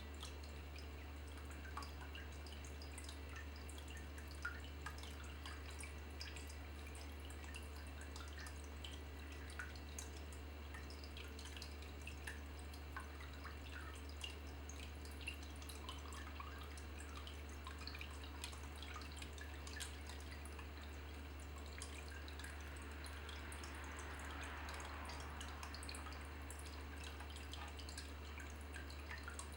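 Water dripping in small, irregular drops over a steady low hum, with a soft trickle swelling for a few seconds in the second half.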